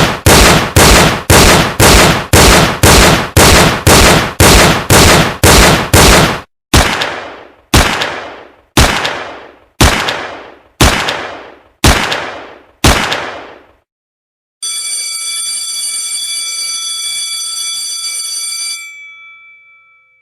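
A rapid run of sharp, quickly fading hits, about two and a half a second, then seven more at about one a second. After a short gap, a bell-like alarm rings steadily for about four seconds, then stops and rings out.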